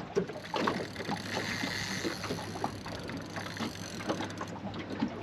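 Water lapping against a small aluminium boat's hull, with light knocks and rattles from gear and movement in the boat, and a brief faint whine about a second and a half in.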